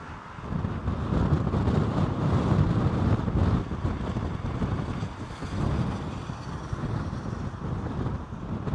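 Strong gusting wind buffeting the microphone: a low, rumbling noise that swells and drops unevenly.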